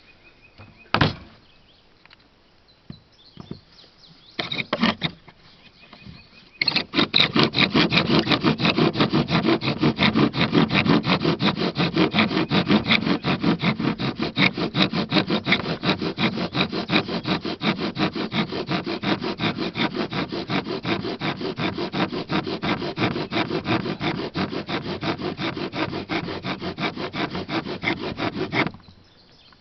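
Bow drill being worked: the wooden spindle rasping in the hearth board in fast, steady back-and-forth strokes of the bow, friction to raise an ember. A few knocks come first as the set is placed; the sawing starts about seven seconds in and stops abruptly near the end.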